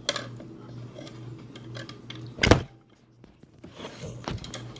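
A loud thump about halfway through, with lighter clicks and knocks around it and a smaller knock near the end, over a steady low hum.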